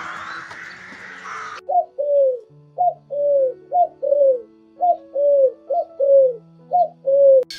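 A bird calling in a repeated two-note phrase, a short note then a longer falling one, five times at about one phrase a second. The calls start after a noisy background that cuts off about a second and a half in.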